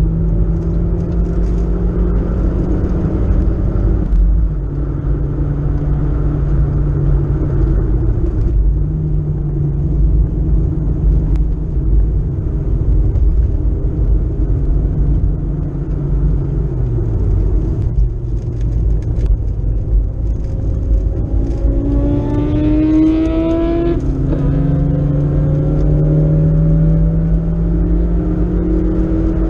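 BMW 318is (E36) 1.8-litre four-cylinder engine heard from inside the cabin while lapping a race track: it holds high revs, falls as the car slows about 16 seconds in, then revs rising hard from about 21 seconds, with a gear change about 24 seconds in. Road and tyre rumble run underneath.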